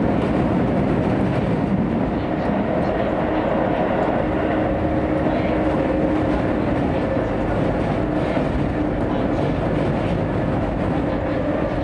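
Interior sound of a Hokuso Railway / Chiba New Town Railway 9000 series train running steadily through a subway tunnel: an even rumble of wheels on rail with a constant hum and faint clicks.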